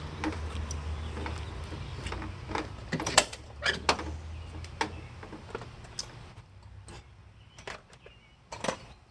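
Scattered clicks and clinks of hand tools and sockets being handled and fitted at a truck's battery terminal nut, over a low steady hum that fades out after about seven seconds.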